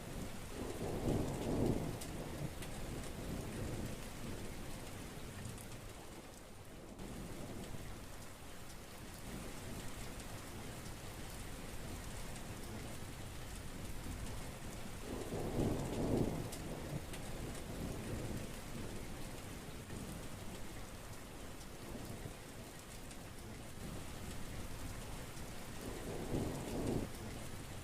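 Heavy rain falling steadily, with thunder rumbling low three times: about a second in, around the middle, and near the end.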